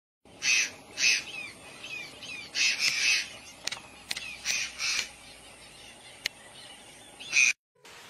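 Bird calls: loud, harsh calls coming in pairs about half a second apart, three pairs and then a single call, with short falling chirps from other birds in between. The sound stops abruptly near the end.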